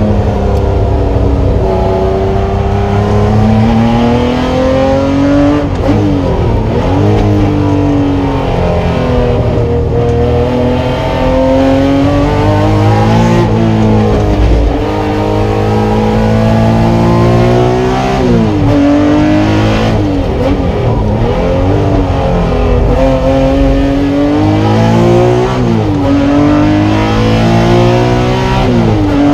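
Honda NSX's stroked 3.5-litre C30A VTEC V6, with individual throttle bodies and straight-pipe exhaust, running hard on a race track. The engine note climbs and falls and swings sharply in pitch at several gear changes.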